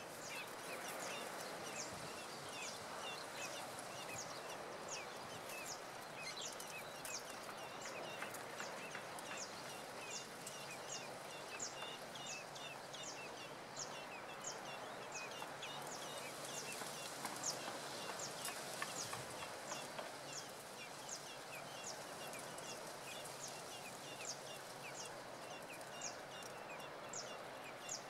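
A small bird giving a short, high chirp over and over at an even pace, over a steady hum of outdoor background noise.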